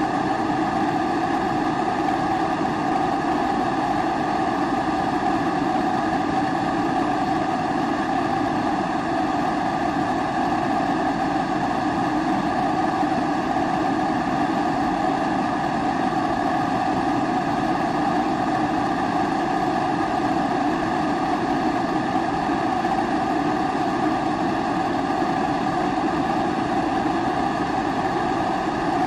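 Kerosene pressure stove (primus-type burner) burning steadily, a constant, unchanging rushing noise.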